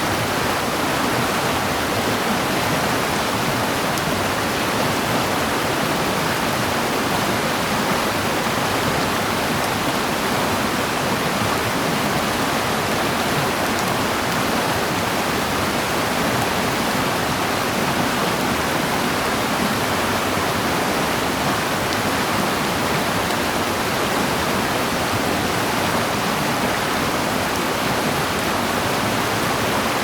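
Steady, loud rushing water, unbroken and even throughout, such as a mountain stream or waterfall in the Yakushima forest.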